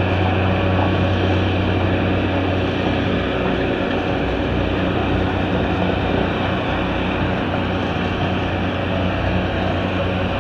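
An engine running steadily, a constant low drone with an even rush of noise over it and no changes in speed.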